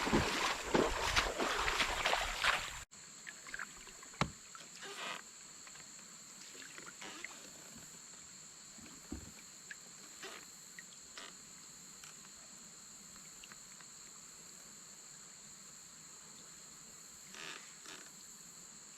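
Loud splashing, rushing water for about three seconds, then it cuts off suddenly to a steady high-pitched drone of insects, with a few faint knocks on the kayak.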